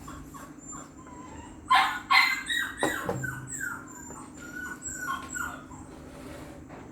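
Dog barking twice, loudly, about two seconds in, then whining in a run of short rising and falling calls.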